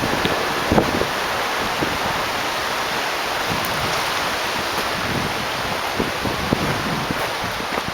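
Steady rushing noise with wind buffeting the microphone, low irregular thumps and no clear rhythm or tone.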